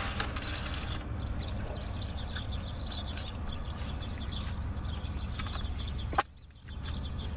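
Steady low hum of a car interior while a man chews french fries, with faint high bird chirps. About six seconds in, a click is followed by the background cutting out briefly.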